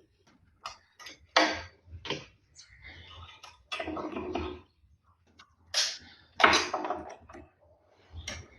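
Handling noise from reassembling an inverter: sharp clicks and knocks of parts and wiring being worked by hand, with a stretch of rustling about four seconds in.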